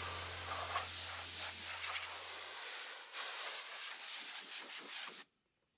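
Sanding on wooden tongue-and-groove boards: a steady scratchy hiss that cuts off suddenly about five seconds in.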